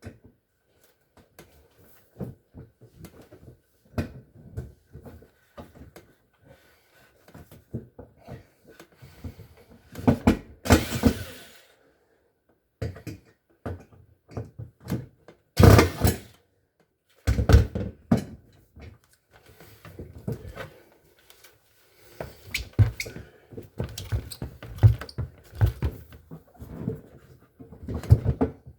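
Irregular knocks, clunks and rattles of appliance parts being handled and fitted, with a longer scraping stretch about ten seconds in and a loud clunk about sixteen seconds in.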